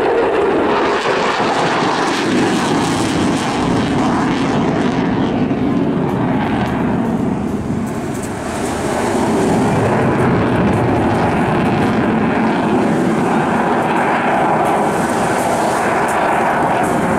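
Eurofighter Typhoon FGR4 fighter jet's twin EJ200 turbofan engines, a loud jet roar from the display aircraft that eases briefly about halfway through and then builds again.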